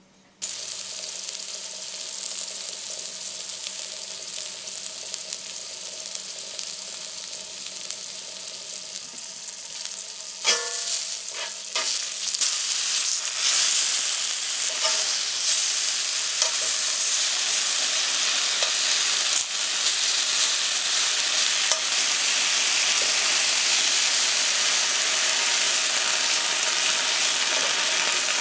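Halved baby potatoes sizzling in hot rapeseed oil in a frying pan. A few clinks against the pan come around ten seconds in, after which the sizzle grows louder and holds steady.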